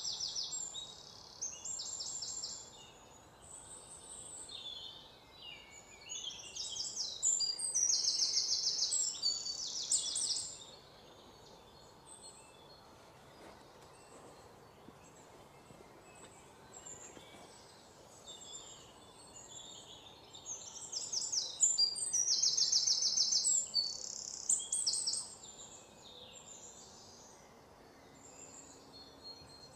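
Birds singing in quick, high trills and chirps, coming in bursts with two louder spells, about a quarter of the way in and again past two thirds, over a faint steady background hiss.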